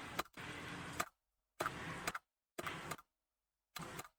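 Faint steady rushing noise from the clip's soundtrack, chopped into about five short pieces that start and stop abruptly with clicks and gaps of silence between them, as the video is skipped back.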